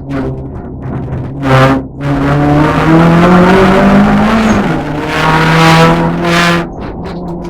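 Race car engine at full throttle, its pitch climbing, then dropping sharply at a gear change about halfway through and pulling steadily again before easing off near the end.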